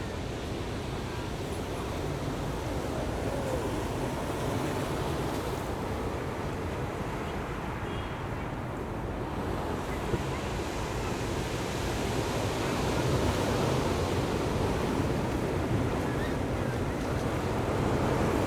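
Ocean surf washing onto the shore, a steady rush of noise that swells louder about twelve seconds in.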